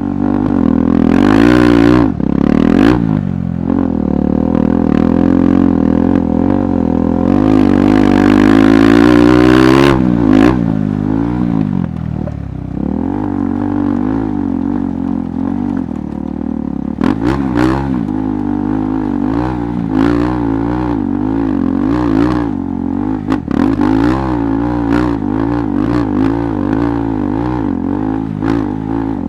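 KTM 390 Adventure's single-cylinder engine running off-road, revving up and down: louder and climbing in pitch over the first ten seconds, then easing off to a lower, steadier pace. Sharp clatters and knocks from the bike over rough ground come through in the second half.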